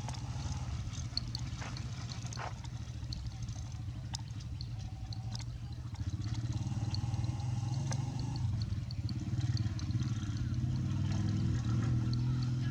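A small engine running steadily with an even low drone, with scattered short high chirps over it.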